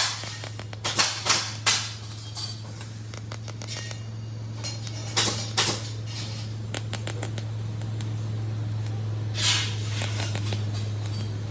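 TIG welding work on a steel chair frame: a steady low electrical hum with scattered sharp metallic clinks and taps. There are louder clusters of clinks about a second in, around the middle, and again near the end.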